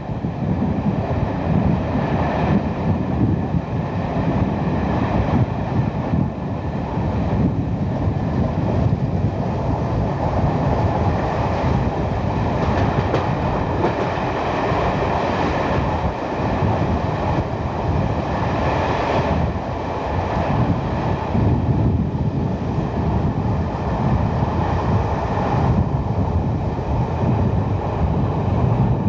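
Coaches of a diesel-hauled passenger train running along the line, heard from on board: a steady, loud running noise of wheels on the track.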